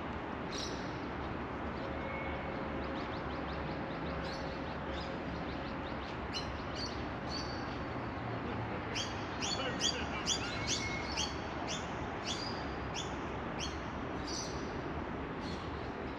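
A small bird chirping: short, sharp, high calls, faint at first and then coming two or three a second through the middle and latter part, over a steady low background noise.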